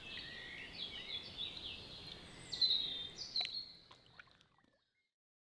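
Songbirds singing: many short, fast chirps and trills over a faint background hiss. The song fades out to silence about four and a half seconds in.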